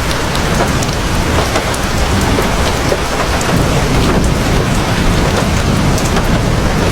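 Heavy rain falling steadily, with individual drops hitting close by and a low rumble of thunder underneath.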